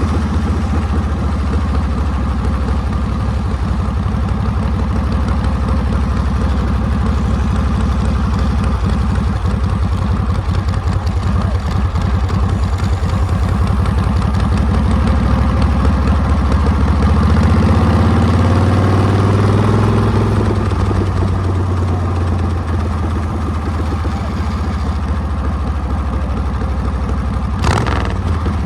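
Harley-Davidson Panhead V-twin engine running steadily with its rapid firing pulses. About two-thirds of the way through, the revs rise and then ease back, and there is a single sharp click near the end.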